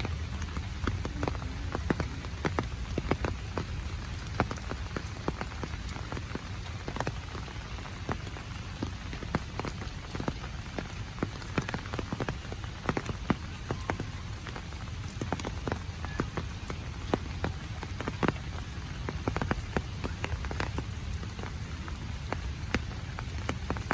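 Steady rain falling, with many individual drops ticking sharply on hard surfaces close by.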